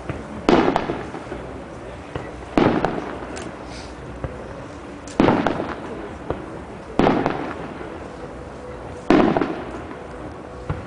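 Aerial firework shells bursting overhead: five loud bangs spaced about two seconds apart, each fading away after the burst.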